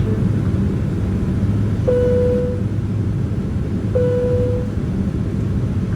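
Steady low drone of a Boeing 767-300ER's jet engines heard from inside the cabin. Two short, identical tones sound about two seconds apart, the first about two seconds in.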